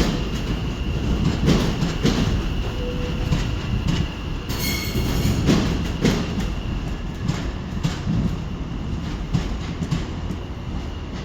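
A train running on the rails: a steady low rumble with irregular wheel clicks over rail joints and a faint steady high-pitched wheel squeal.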